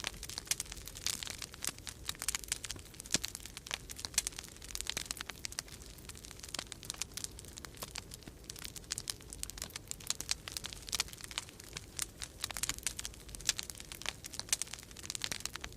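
Wood fire crackling in a fireplace: dense, irregular snaps and pops, over a low steady rumble of winter storm wind.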